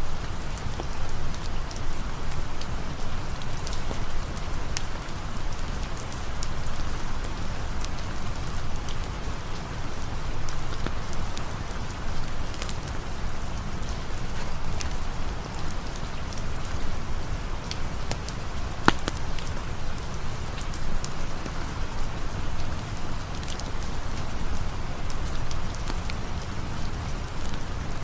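Steady rain falling, with a low rumble and scattered sharp ticks and pops of a crackling campfire, one louder pop about two-thirds of the way through.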